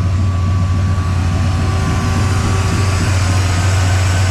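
Ford 347 stroker small-block V8 with aluminum heads idling steadily in an old farm truck, its exhaust pulsing evenly.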